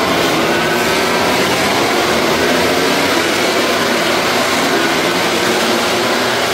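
Several MotoGP racing motorcycles at high revs at once, loud and steady, a dense tangle of engine notes.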